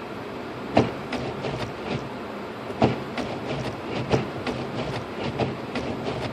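Steady road and tyre noise inside a car's cabin while driving slowly on a snowy road, with a sharp knock about every second and a half and lighter clicks in between.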